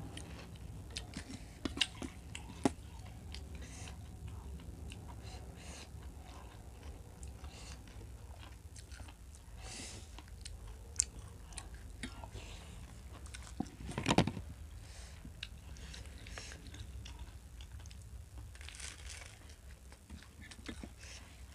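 Close-up chewing and crunching of crispy fried snacks, bhuja and gol finger, eaten with spoonfuls of potato curry. There are scattered sharp clicks, and the loudest crunch comes about fourteen seconds in.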